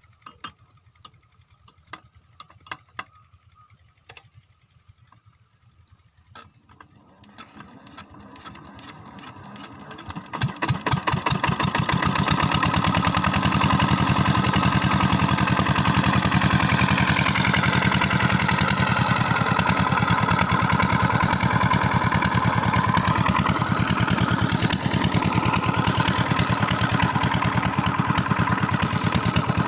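8 hp single-cylinder diesel pump-set engine being started: a few clicks, then a rising cranking noise, until it catches about eleven seconds in and settles into a steady, rhythmic running beat.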